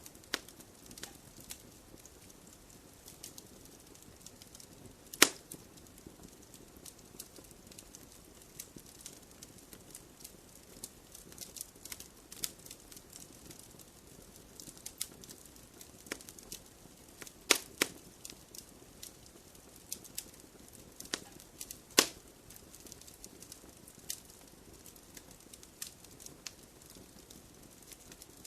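Wood fire crackling in a fireplace: irregular small crackles over a soft hiss, with a few louder sharp pops about 5 seconds in, twice around 17 seconds, and again about 22 seconds in.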